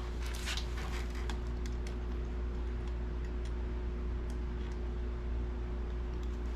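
A few light clicks and taps of hand work on a hose fitting and clamp, thickest in the first second, over a steady low hum.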